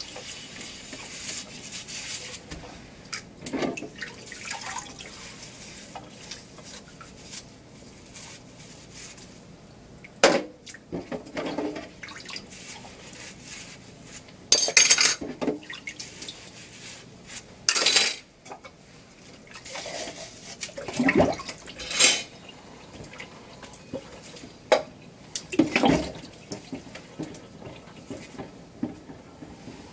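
Dishes and cutlery clattering and clinking every few seconds over a steady wash of running water.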